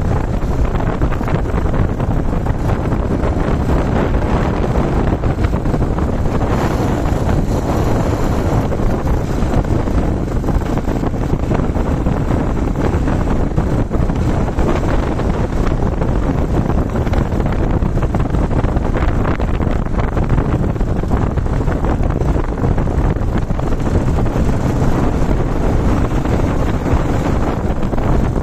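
Steady wind rush over the microphone of a moving Yamaha TW-200 motorcycle, with the bike's single-cylinder engine running underneath.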